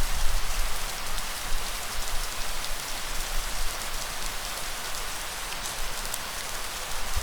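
Steady rainfall: an even hiss of rain on surfaces with scattered faint drop ticks. A low rumble is louder for the first second or so and swells again at the very end.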